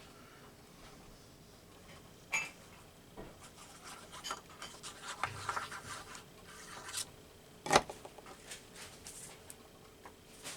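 Paper being handled and rubbed down while collage pieces are glued: scattered rustles and scrapes, with a sharp tap about three quarters of the way through.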